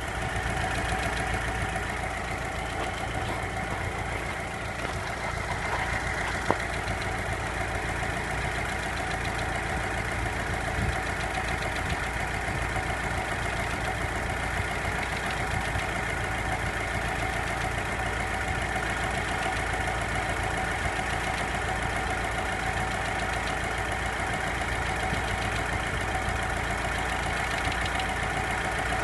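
Volkswagen Passat B5's 1.6-litre ALZ four-cylinder petrol engine idling steadily, with a fast, even knocking in the engine that the owner is recording as a fault. A single sharp click about six and a half seconds in.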